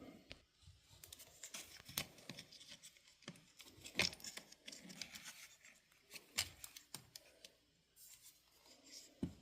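Faint scattered clicks, taps and scraping of small tools and parts being handled on a workbench.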